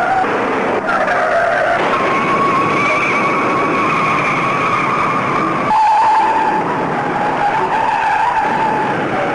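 Stock-car tyres screeching in a long, continuous squeal over engine noise as cars skid into a first-lap pileup. The squeal drops in pitch and gets slightly louder about six seconds in.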